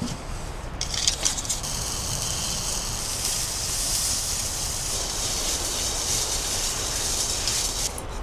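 Fire being started in a tent wood stove: a few crackles about a second in, then a steady high hiss as it catches.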